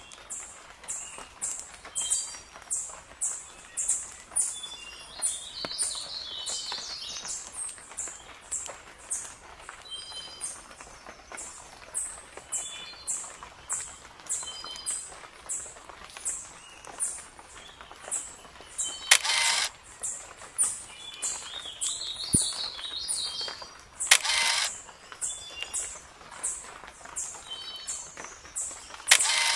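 Birds chirping and calling, over a high chirp that repeats evenly two or three times a second. There are short birdlike notes, a couple of rising calls, and three brief harsh noisy bursts in the second half.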